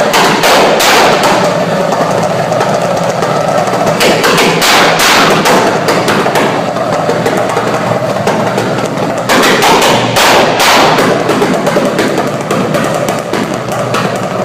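Turbocharged Subaru engine running with its exhaust crackling and popping in rapid bursts: three clusters of pops, near the start, about four seconds in and around nine to ten seconds in.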